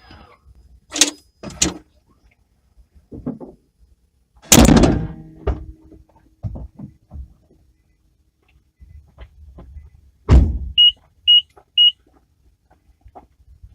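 Car door handling: clicks, then a heavy clunk, and later another clunk followed by three short, evenly spaced high electronic beeps.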